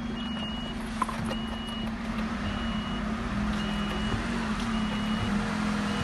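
Garbage truck's reversing alarm beeping, a single high tone about once a second, over the steady running of the truck's engine. A sharp click about a second in.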